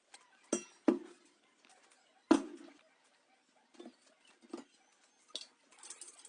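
A few sharp knocks and clicks of hard parts being handled and set down during a restoration, the loudest three in the first two and a half seconds, then fainter taps.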